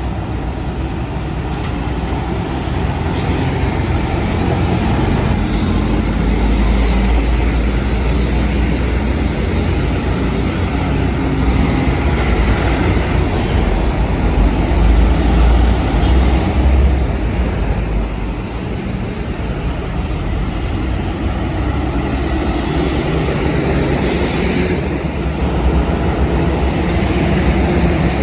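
Heavy diesel truck running on the road: a continuous low engine rumble with road and traffic noise, growing louder through the middle and easing off briefly later.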